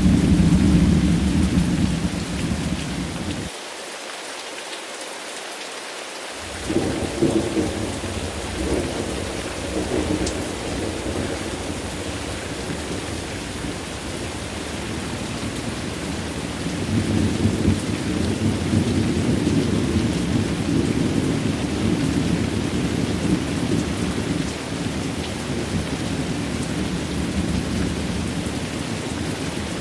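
Steady heavy rain with rolling thunder. The low rumble drops away a few seconds in, comes back, and builds into another long roll in the second half.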